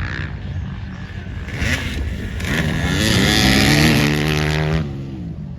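Off-road motocross bike engine revving up, its pitch climbing from about one and a half seconds in and holding loud and high before dropping away sharply just before the end, over a steady engine drone.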